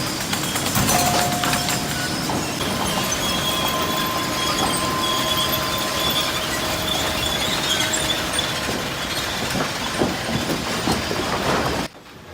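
Sawmill edger line machinery running: a dense, steady mechanical clatter with scattered knocks and faint steady whines. It cuts off abruptly near the end.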